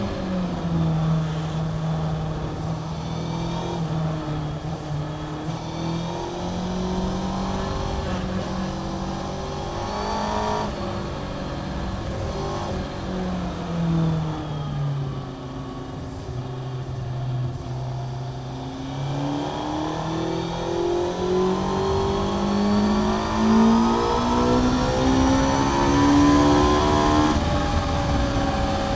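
Honda CBR600F inline-four with a Mivv aftermarket exhaust, heard from the rider's onboard microphone while lapping the track. The revs drop at the start, hold low with small steps and reach their lowest around the middle, then climb steadily through the last third, with a brief drop near the end before rising again.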